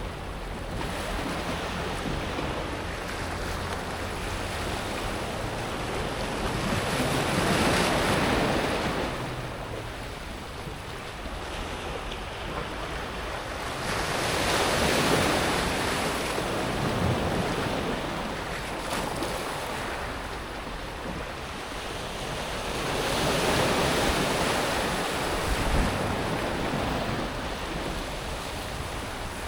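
Small sea waves breaking on a pebble beach, the water washing up over the smooth pebbles and drawing back. The surf swells three times, about eight seconds apart.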